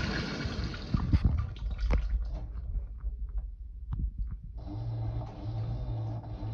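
Fisher & Paykel IW812 top-load washing machine: water rushes and splashes in the drum, dying away over the first couple of seconds into gurgles and small clicks. About four and a half seconds in, a steady motor hum starts, with a low tone that pulses evenly.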